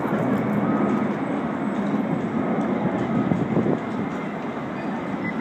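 Low jet-engine rumble of the Boeing 747 Shuttle Carrier Aircraft flying over with Space Shuttle Enterprise on its back, easing off slightly about four seconds in.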